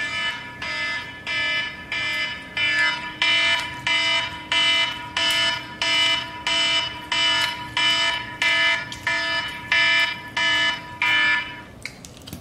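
An electronic alarm beeping over and over, about one and a half pitched beeps a second, stopping shortly before the end.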